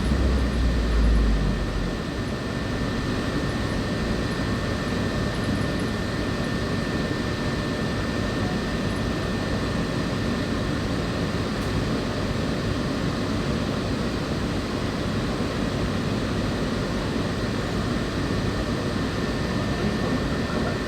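Walt Disney World monorail heard from inside the passenger cabin while under way: a steady running rumble and hiss with a faint, steady high whine. A deeper low rumble eases off about two seconds in.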